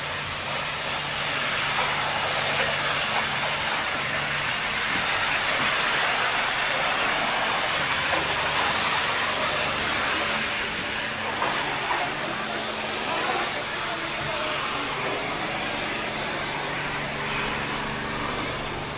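Pressure washer spraying a car: a steady hiss of the high-pressure water jet over a low, even hum from the pump motor.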